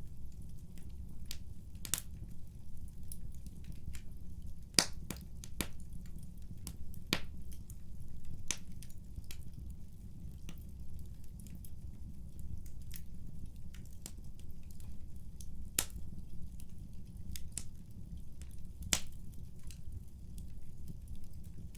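Wood fire burning in a fireplace: a steady low rumble of the flames with irregular sharp crackles and pops, the loudest about five, seven, sixteen and nineteen seconds in.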